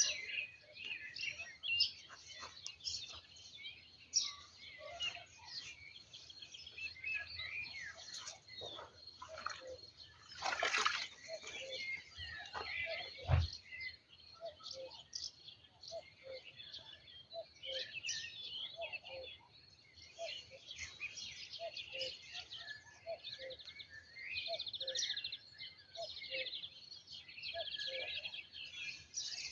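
Songbirds singing and chirping continuously, several overlapping calls. About ten seconds in there is a brief rushing scrape, and a few seconds later a single dull thump.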